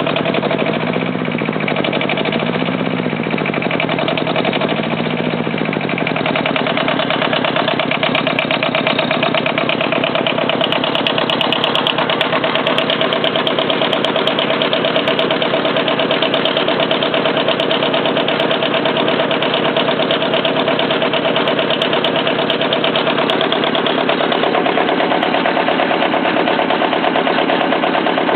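Kubota engine of a homemade tractor running. Its pitch rises and falls three times in the first few seconds, then it runs steadily.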